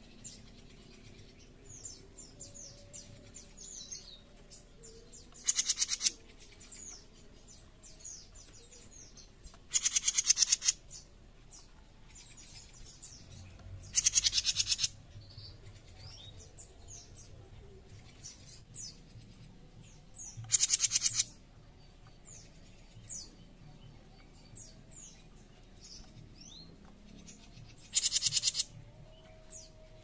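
A caged cucak jenggot mini giving five harsh, rasping buzzes (besetan), each about a second long and several seconds apart, with faint high chirps between them.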